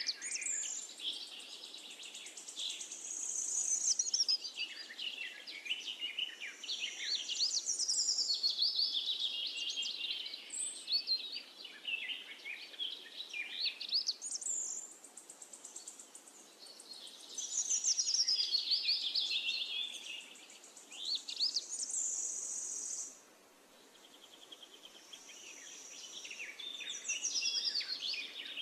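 Songbirds singing: a dense, continuous run of high chirps and trills, with a sudden brief lull about four-fifths of the way through.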